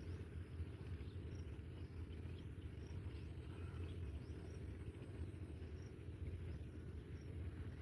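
Steady low rumble of outdoor background noise, with faint short high chirps repeating about every second and a half.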